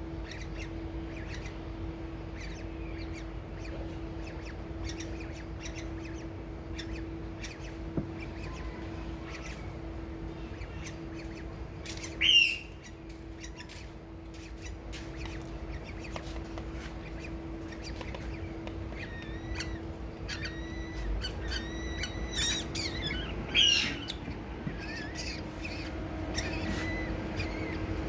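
Birds calling: scattered short chirps, with two loud squawks about twelve seconds in and near the end, and a run of quicker chirps just before the second one, over a steady low hum.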